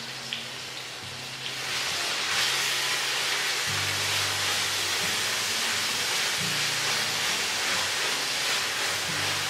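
Minced garlic and sliced onion sizzling in hot oil in a large stainless-steel pot, stirred with a silicone spatula. The sizzle swells about two seconds in, as the garlic spreads into the oil, then holds steady.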